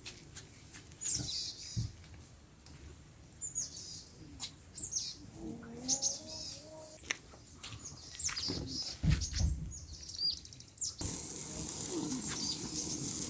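Wild birds chirping: repeated short, high, down-slurred notes in quick runs. About eleven seconds in, a steady hiss of water comes in abruptly.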